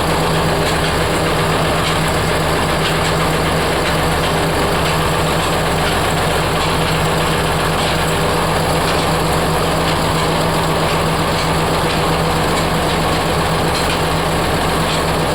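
Oil mill machinery, such as running oil expellers, making a loud, steady, unbroken mechanical drone with a constant low hum.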